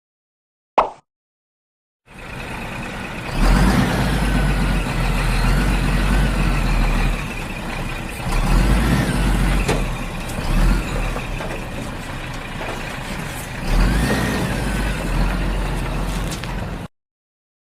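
Heavy truck engine sound, a low rumble that swells and pulses, with wavering higher whines over it. It starts about two seconds in, after a short click, and cuts off abruptly near the end.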